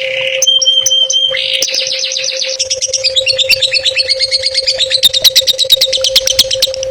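A songbird singing fast, chattering trills of quickly repeated high notes, with one short held whistle about half a second in. A steady low hum runs underneath.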